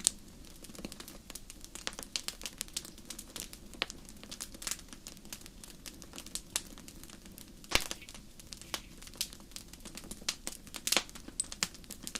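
Wood fire crackling in a fireplace: a steady run of small snaps and pops over a low hiss of flame, with a few louder pops about eight and eleven seconds in.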